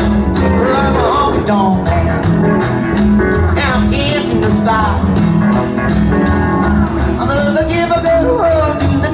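Live honky-tonk country band playing an instrumental break: a steady bass line and drum beat under a lead instrument playing sliding, bending notes.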